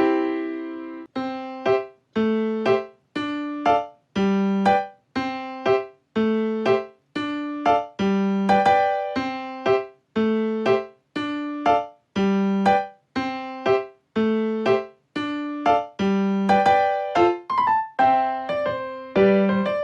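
Background piano music: a simple melody of separate notes, each struck and fading away, about two notes a second.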